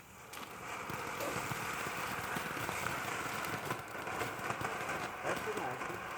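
A consumer firework, just lit, burning and throwing sparks: a steady hiss thick with fine crackling that starts about a third of a second in.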